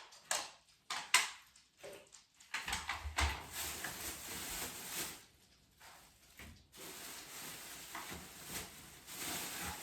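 Household objects being handled and moved: a few sharp knocks and clatters in the first second or so, then longer stretches of rustling and scraping.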